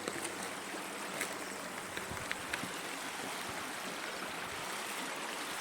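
Steady rushing of a small stream cascading over rocks, with a few faint clicks between one and three seconds in.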